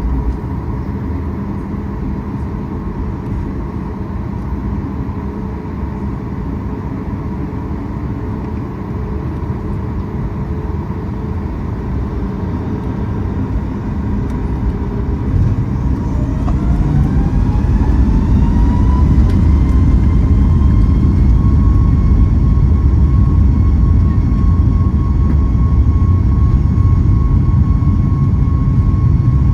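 Boeing 737 MAX 8's CFM LEAP-1B jet engines heard from inside the cabin, spooling up for takeoff: a steady low rumble, then about halfway through a rising whine that levels off into a steady high tone as the rumble grows louder.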